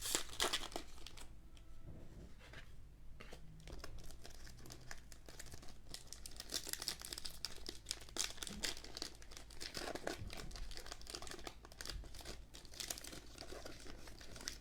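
A basketball trading-card pack's wrapper crinkling and tearing as it is opened by hand, in an irregular crackle with a brief lull about two seconds in.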